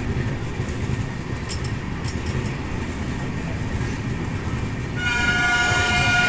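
Train rolling along with a steady low rumble; about five seconds in, a locomotive horn starts, a loud steady blast of several tones at once.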